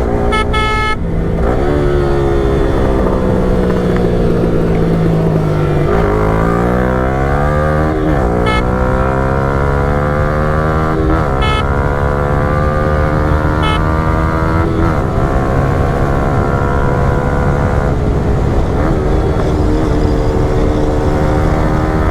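Yamaha R15 V4's 155 cc single-cylinder engine breathing through a Yoshimura Alpha full-system exhaust while the bike is ridden. The engine note climbs and sags as the throttle changes, with several sudden dips in pitch followed by quick climbs, as at gear changes.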